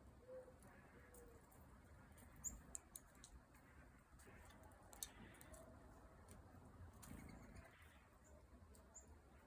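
Faint, scattered bird chirps with a few sharp clicks, the loudest clustered between about two and five seconds in.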